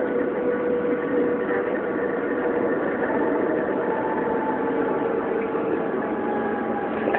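Tram in motion heard from inside the passenger car: a steady running rumble with a faint, even hum.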